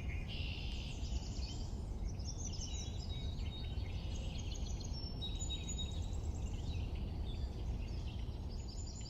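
Small birds chirping and singing, many short overlapping calls, over a steady low outdoor rumble.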